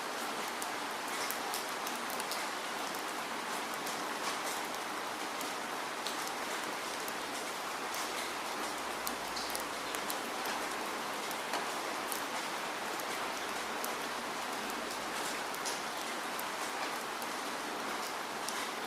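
Steady rainfall, with many fine drop ticks over an even hiss.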